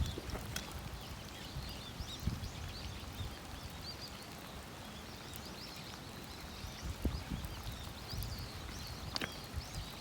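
Small birds chirping repeatedly over a steady hiss of rain, with a few soft low thumps.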